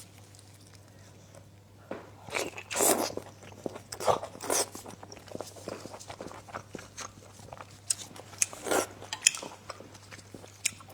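Close-miked eating: a person biting and chewing food, in irregular noisy bursts that begin about two seconds in.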